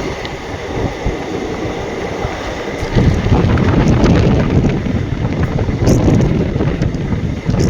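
Wind buffeting the microphone over the rumble of a moving train, growing louder about three seconds in.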